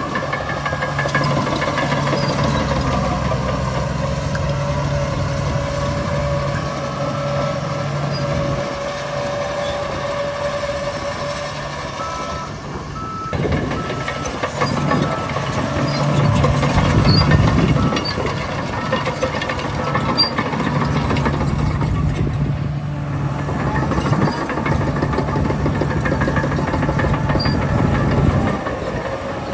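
Heavy diesel earthmoving machinery running: a Shantui bulldozer's engine with dump trucks working alongside, the engine note rising and falling under load. A reversing alarm beeps steadily for several seconds midway.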